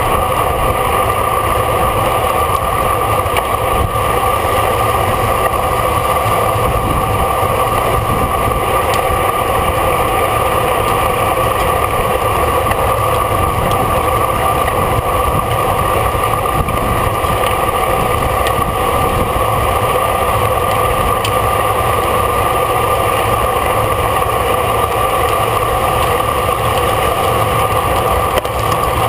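Steady rush of wind over the microphone of a camera on a racing bicycle moving at speed, with a constant hum in it and no changes.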